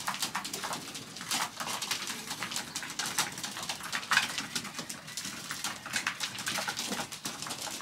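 Racing pigeons feeding and moving about in the loft: a dense, irregular scatter of sharp taps and clicks from beaks pecking maize and feet on the wooden boxes.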